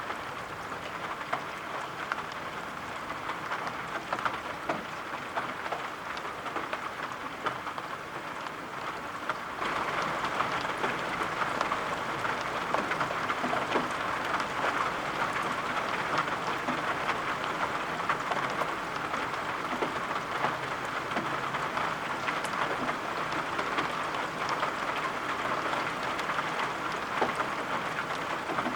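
Steady rain, a dense hiss with scattered taps of falling drops. About a third of the way in it suddenly gets louder and heavier, and stays that way.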